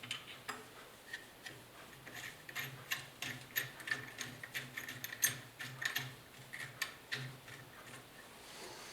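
Light, irregular clicks and clinks of small metal motorcycle parts and hardware being handled and fitted loosely by hand, a few a second, over a faint steady hum.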